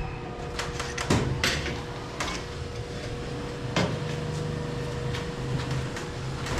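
Irregular knocks and taps from work on a metal ceiling framework being fitted and adjusted: several close together in the first second and a half, another about two seconds in, and one more near four seconds. A faint steady hum runs underneath.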